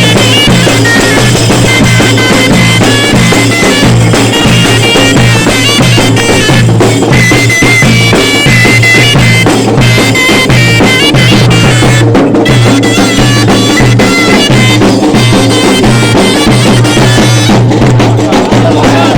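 Bagpipes play a zaffa wedding-procession tune over a steady low drone, with drums beating throughout.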